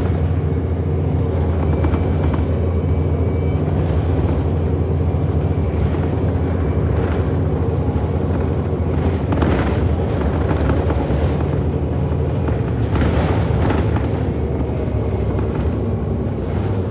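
Interior of a 2008 Orion NG hybrid-electric transit bus under way: a steady low hum from the drivetrain and motor, with road noise. Swells of hiss come twice, about halfway through and again a few seconds later.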